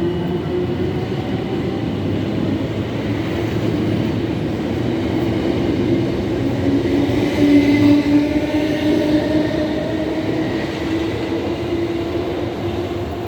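South Western Railway Class 455 electric multiple unit pulling away from a station. Its running noise carries a steady hum and a fainter whine that climbs slowly as it picks up speed. It is loudest about eight seconds in and eases off toward the end.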